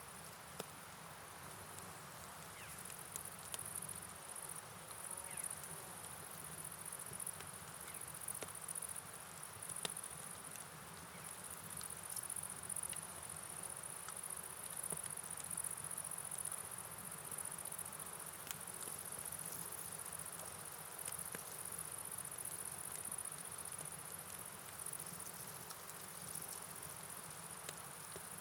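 Crickets calling in a steady high-pitched night chorus over a soft, even hiss of rain and flowing river water, with scattered light ticks.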